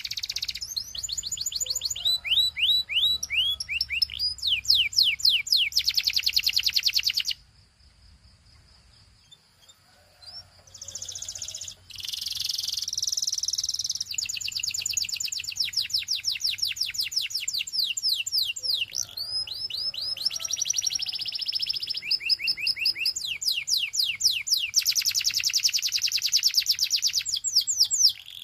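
Belgian canary singing: fast high rolling trills and runs of quickly repeated sweeping notes. The song breaks off for about three seconds a little after a quarter of the way in, then resumes.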